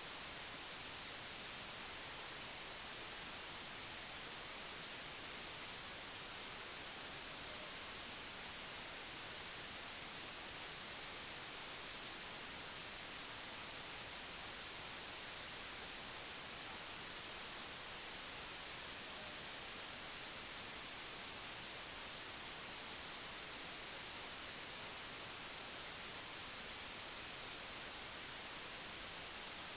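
Steady, even hiss with no other sound standing out of it.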